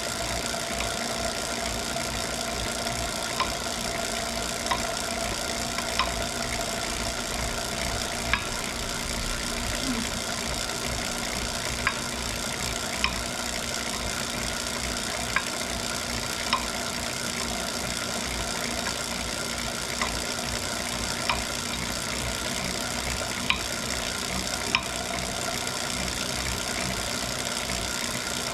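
Wahoo Kickr Core smart trainer running with a steady whir, and a sharp knock every second or two, often coming in pairs about a second apart. The knock is the annoying fault the owner is showing.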